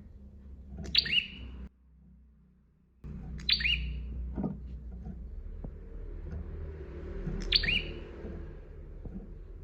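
Prinia (prenjak) calling: three sharp chirps, each sweeping down in pitch, a few seconds apart, over a low background rumble. The sound drops out briefly after the first chirp.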